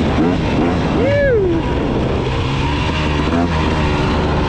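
KTM 300 two-stroke dirt bike engine running while being ridden, its pitch rising and falling with the throttle, with a clear rev up and back down about a second in.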